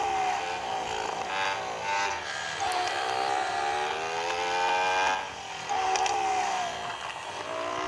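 Motorcycle engine revved repeatedly, its pitch rising and falling in swells of one to two seconds, easing off briefly about five seconds in.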